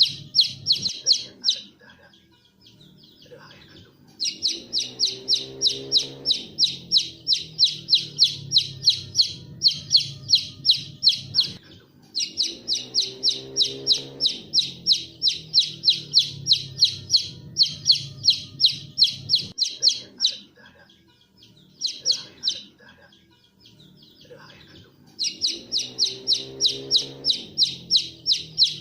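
A bird chirping in long runs of rapid, high, evenly spaced chirps, about four a second, broken by short pauses. A lower call that rises and falls is heard three times.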